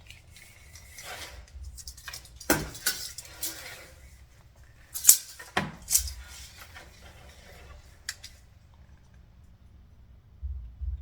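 Metal lock cable and hand tools being handled, giving a series of sharp metallic clicks and clinks with rustling between; the loudest click comes about five seconds in.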